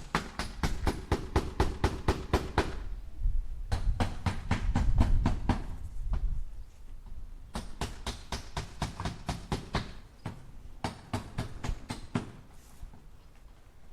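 Hammer driving nails into wood in quick runs of strikes, about four a second, in four bursts with short pauses between them.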